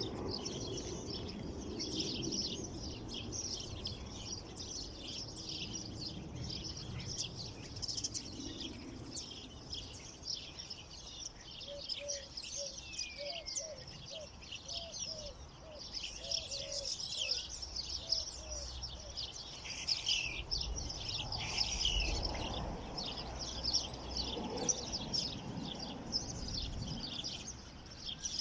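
Many small songbirds chirping and twittering at once in a dense, overlapping chorus of high notes, with a short run of lower, repeated calls partway through.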